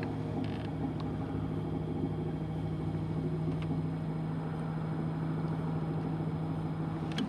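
Jon boat's motor running steadily with an even hum, cutting off abruptly near the end.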